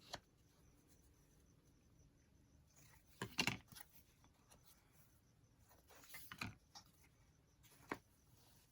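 Near silence broken by brief handling noises of paper craft pieces on a table: a short rustle about three seconds in, another around six seconds, and a single light tap near the end.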